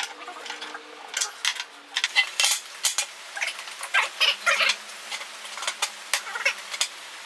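A run of irregular light clicks and knocks, several a second.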